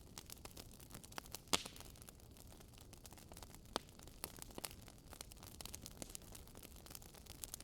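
Wood fire crackling faintly: irregular pops and snaps over a soft hiss, the sharpest pop about a second and a half in and others near four seconds.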